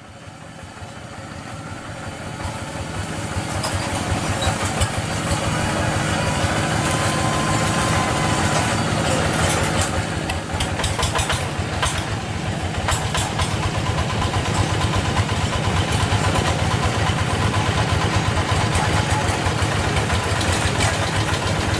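Tractor engine running steadily, growing louder over the first few seconds and then holding, with a few sharp clicks about ten to thirteen seconds in.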